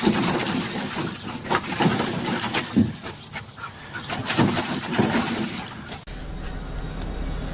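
Close-up dog sounds mixed with rustling and irregular knocks, as a dog gets in the way of someone exercising on the floor. About six seconds in, the sound cuts to a steady low hum.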